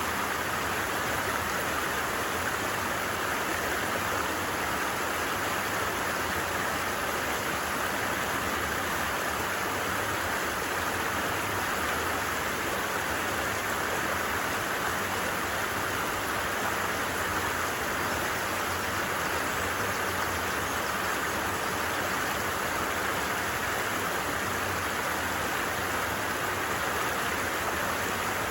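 A flowing creek, its water rushing steadily and evenly, with no let-up or change.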